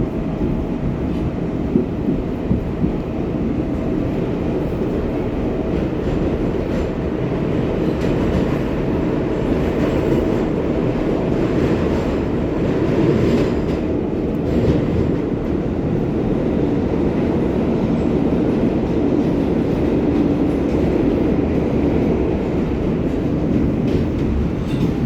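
R188 subway train running on the 7 line, a steady rumble with wheel-on-rail clatter. A faint steady whine fades out about halfway through, and the noise grows brighter for a few seconds.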